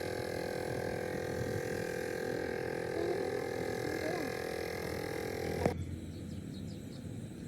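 A steady machine hum made of several fixed tones. It ends abruptly with a click about three-quarters of the way through, leaving a softer rushing background.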